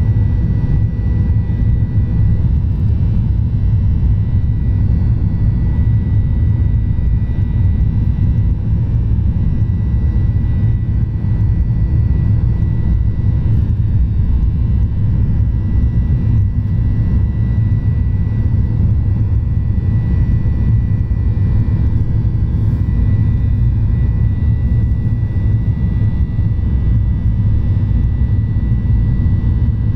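Airliner jet engines running steadily: a loud, even rumble with a thin, steady high whine on top.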